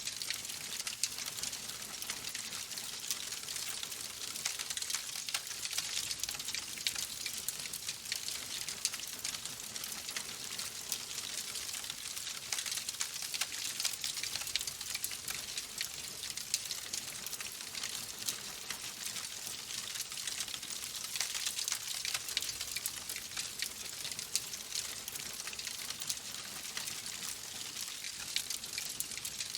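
Log fire burning in a fireplace, a steady hiss with dense, irregular crackling of the burning wood.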